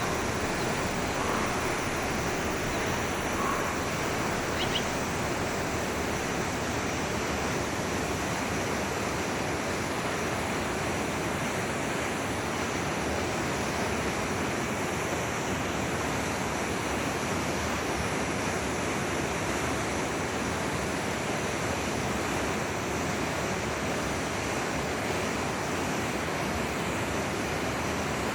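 Forest stream flowing, a steady even rush of running water, with a few faint bird notes about one to five seconds in.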